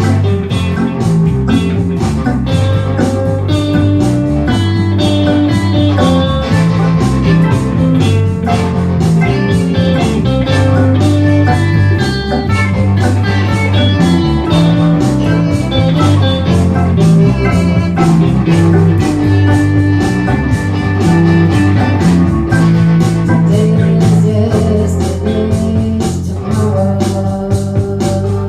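Band music: a blues-rock song with guitar, bass and drums keeping a steady beat.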